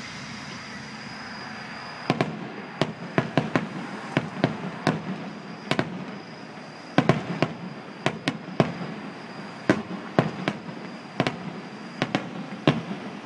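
Fireworks bursting: sharp pops and cracks start about two seconds in and come irregularly, often in quick clusters, over a steady background hiss.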